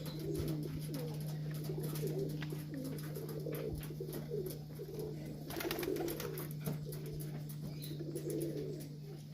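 Serbian highflyer pigeons cooing repeatedly, one warbling coo running into the next, over a steady low electrical-sounding hum.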